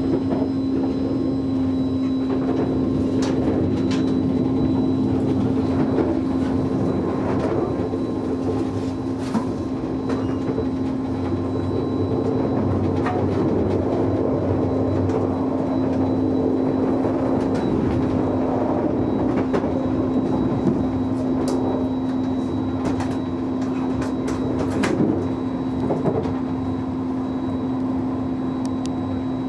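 Interior running noise of a German ICE3 high-speed train at speed, heard inside the carriage: a steady rumble with a constant low hum, and scattered clicks as the wheels cross rail joints and points.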